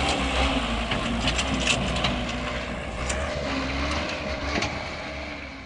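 Heavy vehicle engine running with a steady low rumble, with scattered knocks and clatter over it; the sound fades down near the end.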